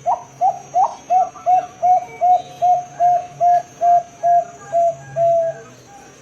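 Bangkok-strain zebra dove (perkutut) cooing: a run of about fourteen short, rounded coo notes at roughly two and a half a second. The first few notes are hooked upward and the last is drawn out a little longer.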